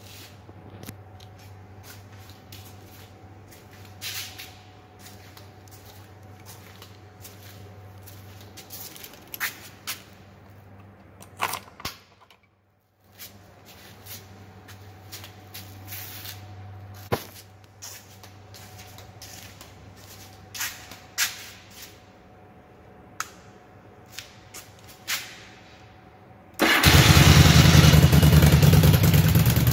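Scattered light clicks and knocks over a low steady hum, then, about three seconds before the end, a Yamaha Virago V-twin motorcycle engine starts abruptly and runs loudly.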